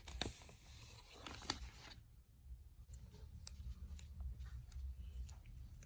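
Faint rustling of a sticker being peeled from its paper backing sheet. After about two seconds come a few light taps and clicks of the paper being handled and pressed down.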